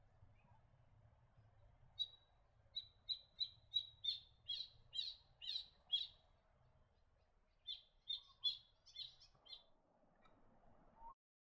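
White-gaped honeyeater calling: a series of about ten short, sharp repeated notes, then after a brief pause a second series of about six.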